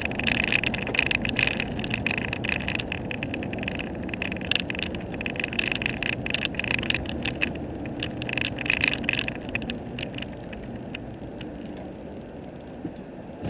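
A vehicle driving on the highway: steady engine and road noise with a crackling hiss over it, easing off somewhat in the last few seconds.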